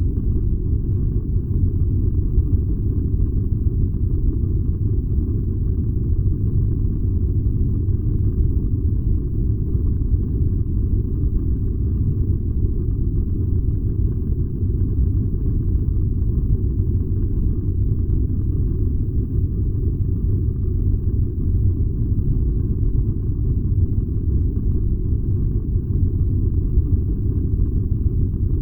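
Furnace burning with a steady, unchanging low rumble and no distinct clicks or pitch changes.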